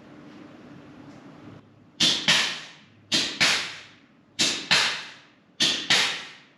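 Air-powered grease gun cycling: four pairs of short, sharp air pops about a second apart as the pneumatic pump strokes. Before them, a low steady hum stops about a second and a half in.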